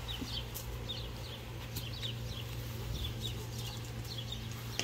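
Birds chirping: short, high chirps that fall in pitch, about two a second, over a steady low hum.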